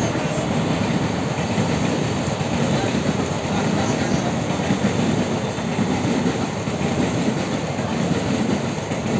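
Azad Hind Express passenger train's coaches rolling past, a steady noise of wheels running on the rails that holds without a break.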